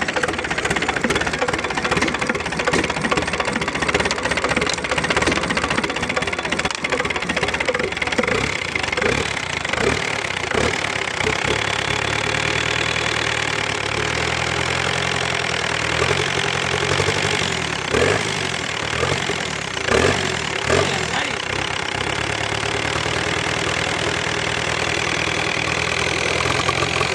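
Tata 407 light truck's diesel engine running with a clattering knock, uneven at first and settling into a steady idle from about ten seconds in.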